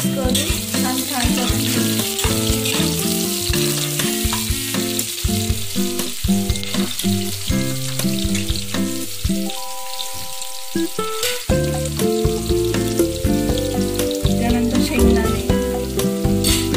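Onion, garlic, curry leaves and mustard seeds sizzling and frying in hot oil in an aluminium pressure cooker, with a few light clicks, over background music.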